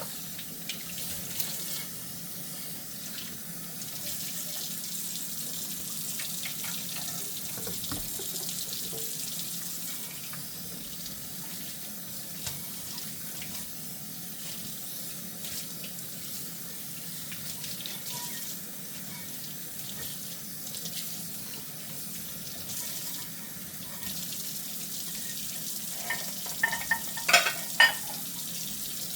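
Tap water running steadily into a kitchen sink during hand dishwashing, with scattered small knocks. Near the end comes a quick cluster of loud clinks of dishes knocking together.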